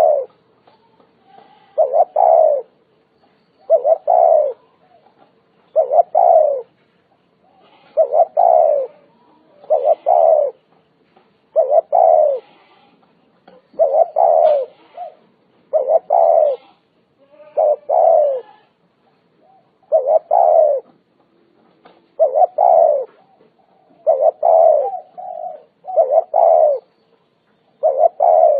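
Spotted dove cooing, a loud phrase of coos roughly every two seconds, each phrase short and falling slightly in pitch.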